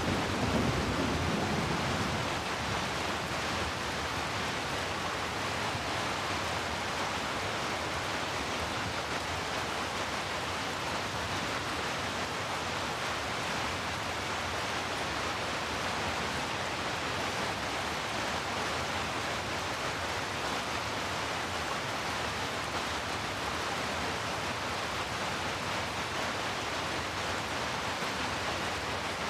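Heavy rain falling in a steady, even hiss, with the tail of a thunder rumble dying away in the first couple of seconds.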